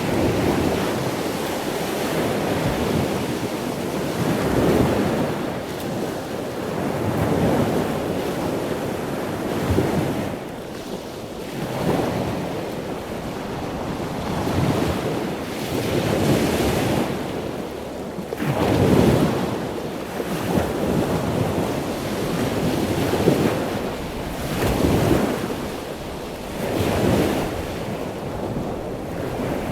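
Ocean waves breaking and washing on a shore, swelling and easing every few seconds, with wind noise on the microphone.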